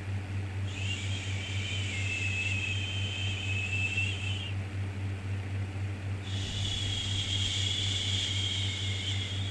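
Long 'shhh' shushing sounds for soothing a baby, each about four seconds long with a faint whistle in the hiss. One starts about a second in and ends midway, and the next begins near the end. Both play over a steady low hum.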